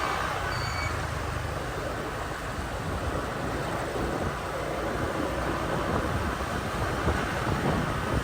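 Motorbike riding through town traffic: a steady rumble of the engine and road, mixed with passing traffic noise.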